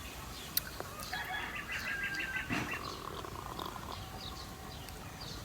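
Wild birds chirping, with one giving a quick run of repeated high notes about a second in, and a single sharp click near the start.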